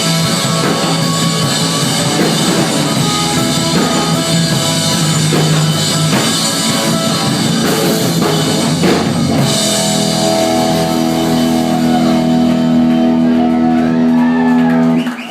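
Live rock band playing loudly with drum kit and guitar. From about nine seconds in the band holds a final chord, and it cuts off just before the end as the song finishes.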